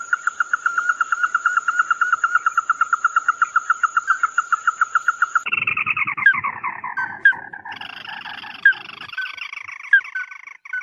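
Bird calls: a fast, even trill of about eight notes a second, with a thin steady high tone above it. About five seconds in, the trill gives way to a harsher, downward-sliding chattering call that runs until near the end.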